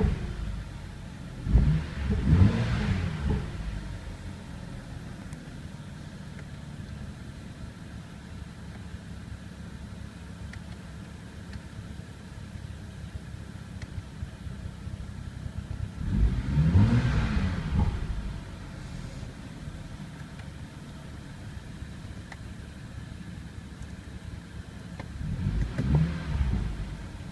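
BMW 435i's turbocharged straight-six, on its original exhaust, idling with the throttle blipped: two quick revs a couple of seconds in, one longer rev about sixteen seconds in, and another near the end, the pitch climbing and falling back each time.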